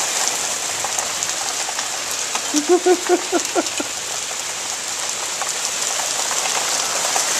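Steady rain falling on a backyard deck, lawn and trees: a dense, even hiss with scattered drop hits. About two and a half seconds in comes a quick run of about six short pitched notes.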